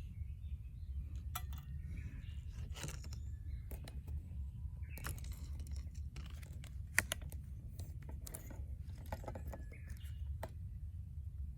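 Scattered light metallic clinks and rattles of metal pieces being handled, a few ringing briefly, over a steady low rumble; one sharper clink stands out about seven seconds in.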